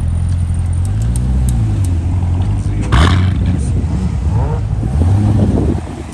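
Car engine running close by, a deep rumble that rises and falls in pitch, with a short, sharper noisy burst about three seconds in.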